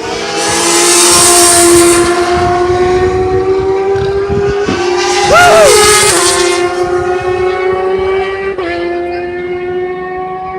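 Racing motorcycle engines held at high revs, a steady pitched note slowly climbing, with two louder surges as bikes pass close by; near the second pass one engine's pitch briefly dips and rises again.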